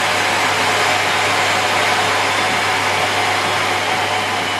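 Miele Complete C3 canister vacuum cleaner running steadily, a loud even rush of air with a faint high whine that dips slightly in pitch near the end.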